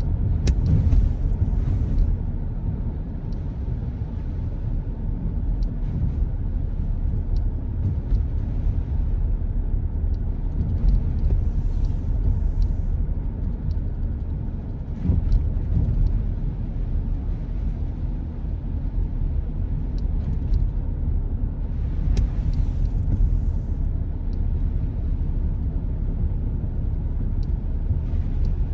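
Car driving on a wet road: steady low rumble of tyre and road noise, with brief swells of hiss several times.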